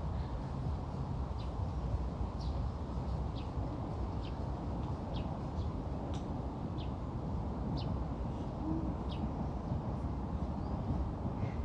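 Short, high bird chirps repeating about once a second over a steady low rumble.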